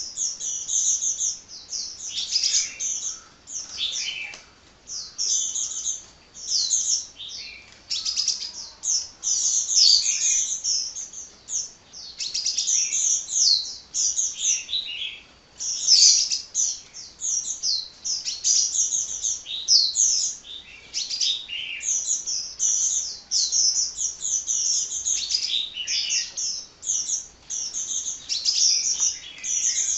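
Sunbird ('kolibri') singing a continuous run of rapid, high chirps and twitters, with only brief pauses between phrases.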